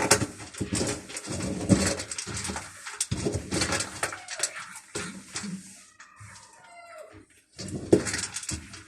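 Quick clicking and clattering for about six seconds, then a single drawn-out animal call lasting about a second and a half, then more clatter.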